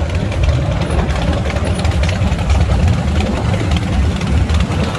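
A motorcycle engine running steadily, a low rumble with a rough haze of noise over it.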